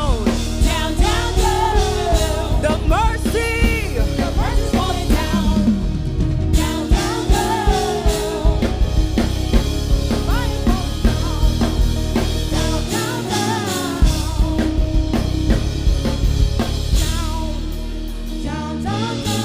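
Live gospel worship music: a band with a drum kit keeping a steady beat under a singer's gliding vocal runs.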